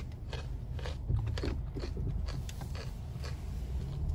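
Steady low rumble of the BMW 330i's turbocharged four-cylinder engine running at low revs, heard from inside the cabin, with scattered light clicks and creaks from the interior.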